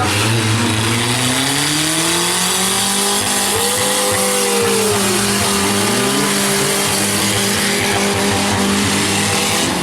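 Several compact truck and van engines running and revving together in a demolition derby, their pitches rising and falling, with one engine's rev swelling and dropping about four seconds in.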